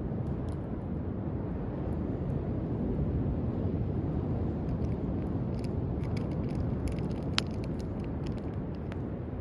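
Driftwood campfire crackling with scattered small pops, one sharper pop about seven seconds in, over a steady low rumble of waves.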